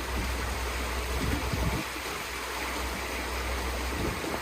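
Fast-flowing floodwater rushing steadily, with a low rumble beneath it.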